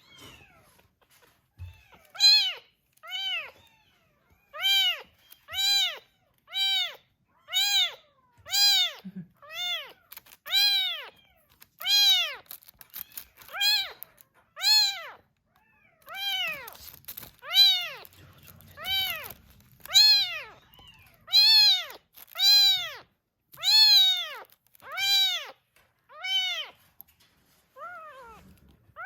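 Young bottle-fed rescue kitten meowing over and over, about one high cry a second, each call rising and then falling in pitch.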